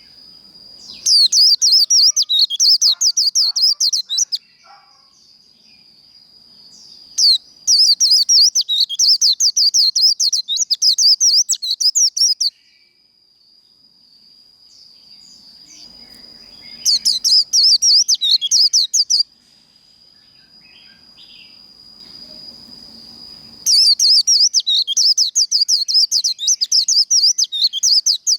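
White-eye (vành khuyên) singing its rapid, chattering 'líu' song in four bursts of fast warbling notes, each a few seconds long, with short pauses between. This is the competitive song that such recordings are played to provoke in caged birds.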